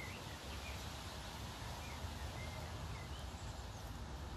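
Garden ambience: a steady low background rumble with faint, short bird chirps scattered through it.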